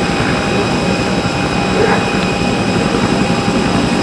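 A jet aircraft engine running steadily on the apron: an even, loud rush with a thin, steady whine over it.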